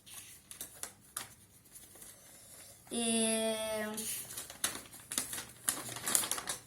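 Plastic packets and paper from a toy box being handled, giving scattered crinkles and clicks. About three seconds in there is a single steady pitched tone lasting about a second.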